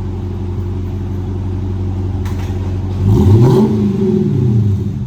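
Dodge Charger R/T's 5.7-litre HEMI V8 with the mufflers deleted and the resonators kept, idling steadily, then revved once about three seconds in, its pitch climbing and falling back over about two seconds.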